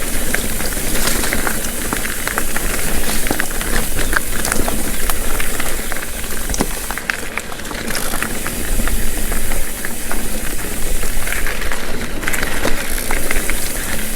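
Mountain bike riding fast over rocky trail: a steady rush of wind over a helmet-mounted action camera's microphone, with tyres crunching on rock and many short clicks and rattles from the bike.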